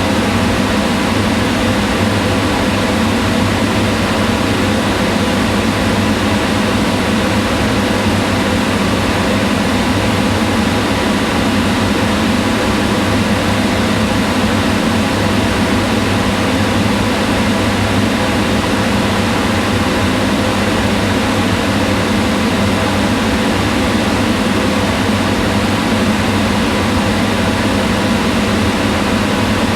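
Kitchen range hood exhaust fan running steadily: an even whir of moving air over a low motor hum.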